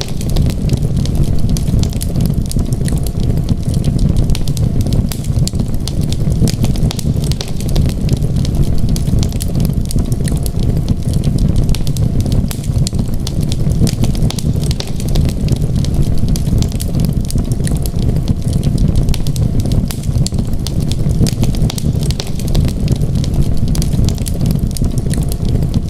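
Wood fire in a fireplace crackling, with many small irregular pops and snaps over a steady low rumble.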